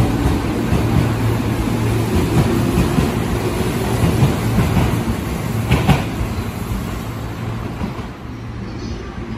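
Electric commuter train moving slowly along a station platform: steady motor hum and wheel rumble, with a single sharp clack about six seconds in. It grows quieter near the end.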